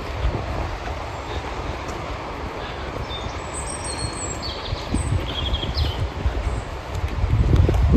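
Steady outdoor hiss of light rain with a low rumble that swells near the end. A bird gives a few short, high calls around the middle.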